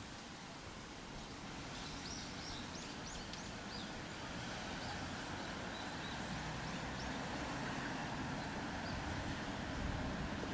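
Outdoor ambience: a steady wash of background noise with a low rumble that grows slightly louder. Over it a bird gives a quick run of short high chirps a couple of seconds in, then a few scattered calls.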